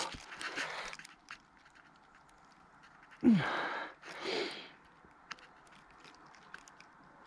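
A man's pained groan with a falling pitch about three seconds in, then a heavy breath, from a sudden calf injury. Faint footsteps in between as he hobbles along.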